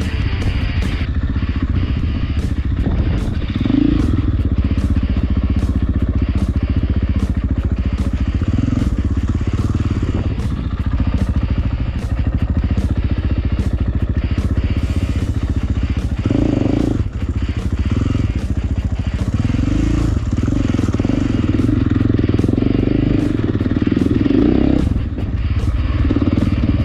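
450cc single-cylinder four-stroke dirt bike engine running under throttle off-road, revving up and down several times, with frequent clicks and knocks over it.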